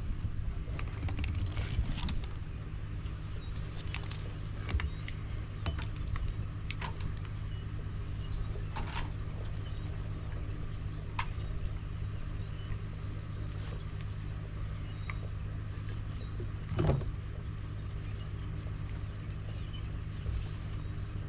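A steady low engine hum with scattered light clicks and knocks, a brief high whine a couple of seconds in, and one louder knock about seventeen seconds in.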